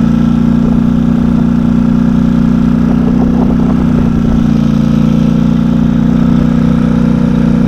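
Engine of a ridden vehicle running at a steady, even speed, its note holding one pitch.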